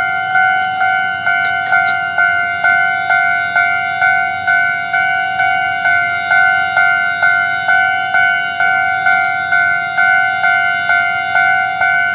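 Level crossing warning bell ringing steadily, struck about two to three times a second, the signal that a train is approaching and the barriers are down.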